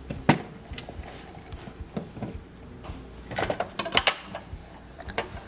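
Clicks and taps of hard plastic toys being handled as a toy refrigerator is opened: one sharp click just after the start, then a quick cluster of clicks and taps about three and a half seconds in.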